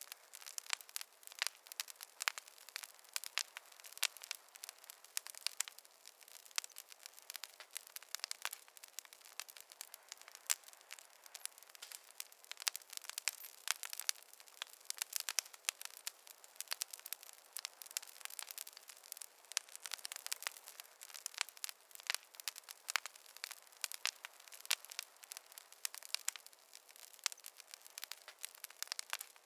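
Campfire crackling: a dense, irregular stream of sharp pops and snaps over a faint hiss.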